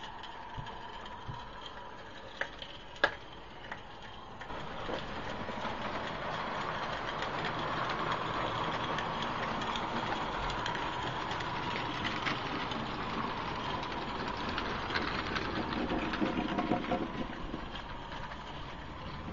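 Accucraft Shay live-steam garden-scale geared locomotive running along the track, its running sound growing louder from about four seconds in and easing off near the end. A couple of sharp clicks come in the first few seconds.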